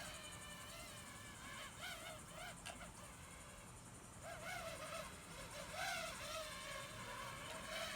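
Faint whine of a DJI FPV quadcopter's motors and propellers in flight, the pitch rising and falling again and again as the throttle changes.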